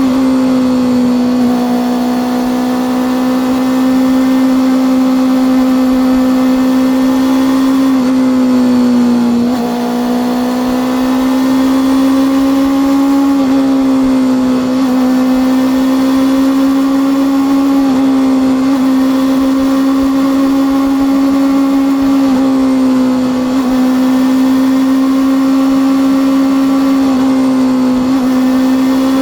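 Honda CB400 Super Four's inline-four engine and exhaust running at steady high revs while riding, its pitch dipping briefly and climbing back several times, about every four to five seconds.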